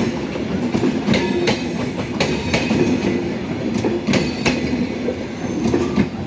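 Madhumati Express passenger train running on the track: a steady rumble with sharp wheel clacks over rail joints, about two a second.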